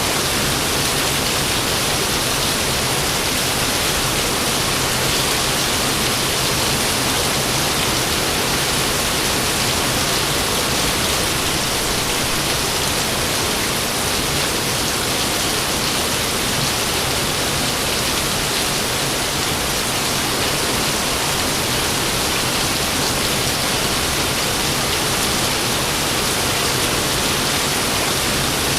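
Steady rain falling, an even hiss that holds without a break and with no thunderclap.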